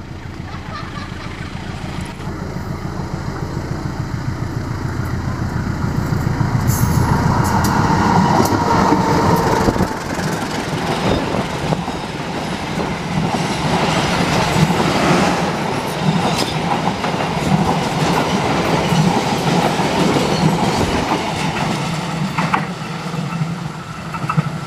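A KAI diesel locomotive and its passenger train passing close by. The engine's low drone grows steadily louder over the first several seconds as the locomotive approaches. The carriages then roll past with a dense clatter of wheels on rail, easing a little near the end as the train draws away.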